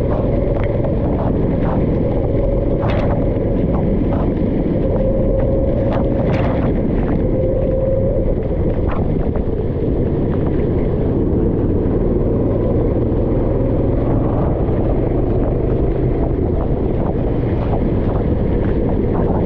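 Kart engine running steadily at speed, with wind buffeting the microphone and a few short sharp clicks.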